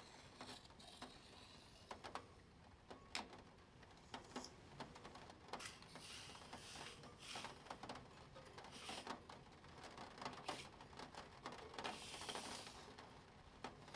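Faint Spirograph drawing: scattered small plastic clicks as the gear wheel and ring are handled and turned, with short scratchy swishes of a pen on paper.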